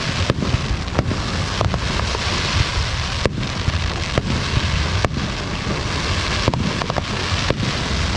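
Aerial fireworks bursting in quick succession: sharp bangs every half second to a second over a continuous dense crackle of sparkling shells.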